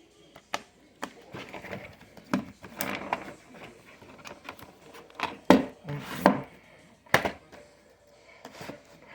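Objects being handled close to the microphone: irregular clicks and knocks with rubbing between them, loudest from about five and a half to six and a half seconds in.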